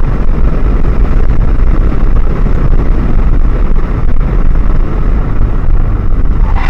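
Loud, steady low rumble of a moving vehicle: road and engine noise.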